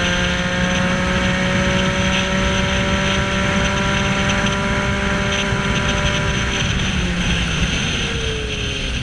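Motorcycle engine running under way at a steady, slowly rising pitch, with rushing wind noise over it; the engine note drops off near the end.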